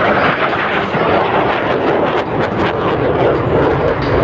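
Boeing F/A-18 Super Hornet jet making a low pass, a loud steady roar from its twin jet engines with sharp crackles in the middle.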